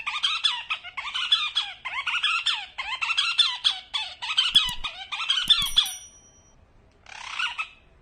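Rapid, high-pitched squeaky animal calls, about two a second, breaking off about six seconds in, then one more call near the end.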